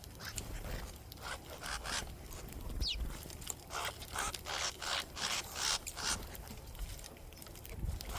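Small birds at a seed feeder: irregular short rustles and scrapes from wings fluttering and seed being scrabbled about. A single short falling chirp comes about three seconds in.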